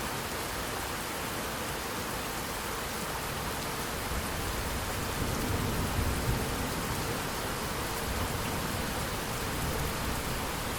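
Steady rain falling and pattering on surfaces, with a low rumble of distant thunder swelling and fading in the middle.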